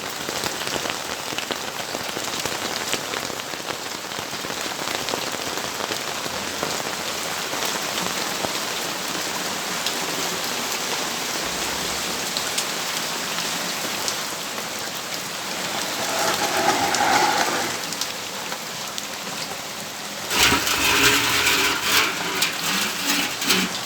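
Steady rainfall, drops pattering on surfaces around a balcony. Two louder swells rise over the rain, one about two-thirds of the way through and a longer one near the end.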